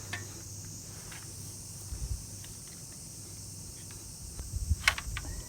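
Scattered light clicks and knocks of tools or parts being handled during engine disassembly, with a sharper metallic clink about five seconds in, over a steady high-pitched hiss.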